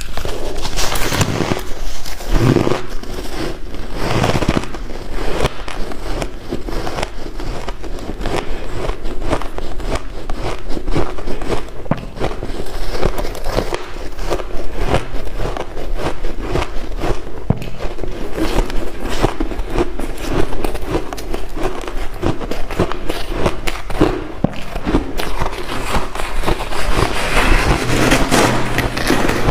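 A person chewing ice, close up: a dense, continuous run of sharp crackling crunches.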